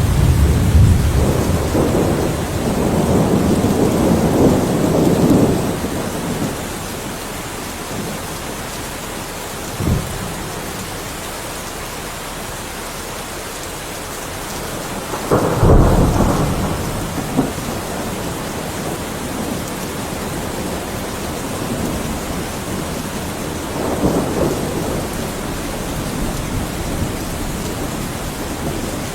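Heavy rain falling steadily, with thunder. A long rumble runs through the first few seconds, a short crack comes about ten seconds in, a sharp clap comes about halfway and rolls off over a couple of seconds, and a softer rumble comes near the end.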